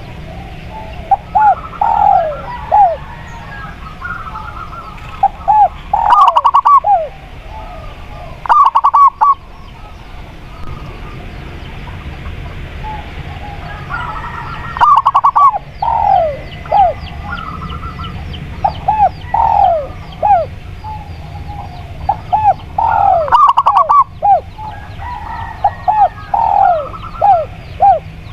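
Spotted dove and zebra dove cooing, in repeated phrases of short arched notes with quick runs of rapid notes, over a steady low hum.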